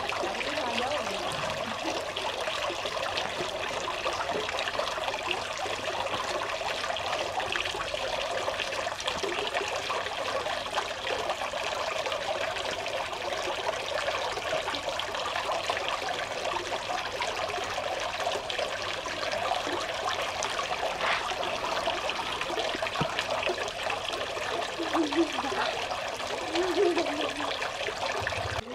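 Small cement waterfall running: a steady trickle of water splashing down into a fish tank.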